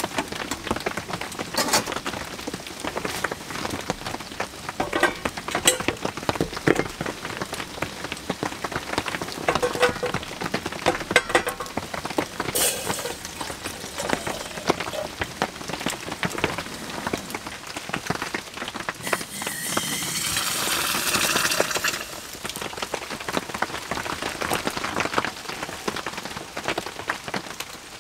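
Heavy rain pattering on a cardboard tent, heard from inside: a dense run of drops with now and then a louder single tap. About two-thirds of the way in, a louder hiss rises for about three seconds and then cuts off.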